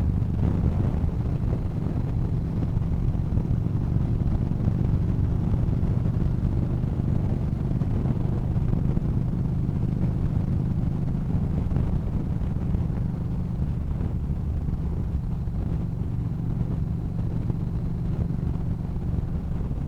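Yamaha Bolt's air-cooled V-twin engine running at a steady cruising speed, with wind rush over the rider.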